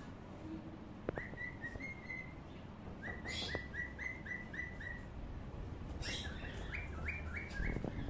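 A pet bird calling in three runs of short, quick chirps, a few notes a second, with brief pauses between the runs.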